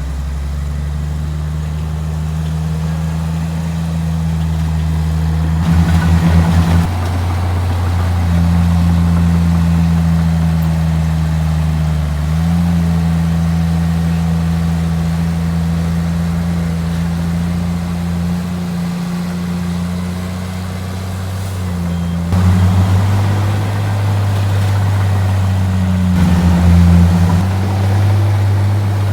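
Heavy diesel engine of earth-moving machinery running steadily at a low pitch, with a few brief louder surges as it takes load or revs.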